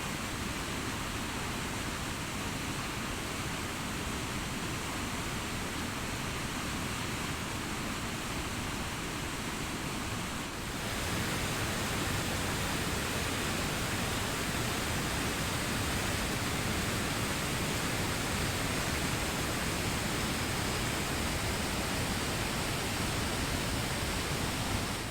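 Waterfall on the Brule River (Devil's Kettle Falls): a steady rush of falling water. The sound dips briefly about ten seconds in, then carries on slightly louder.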